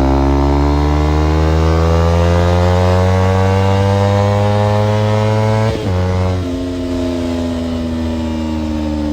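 Kawasaki Ninja parallel-twin motorcycle engine pulling under acceleration, its pitch climbing steadily, then a quick upshift about six seconds in drops the revs before they start rising again in the next gear.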